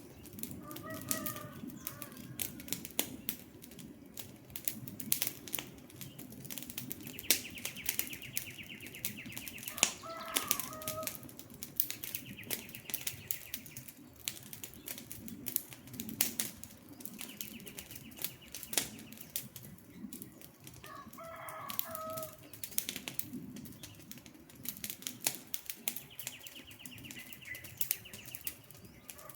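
Campfire crackling with frequent sharp pops over a low steady rumble of burning wood. A bird call repeats about every ten seconds, four times, and a fast high-pitched trill comes in between, also four times.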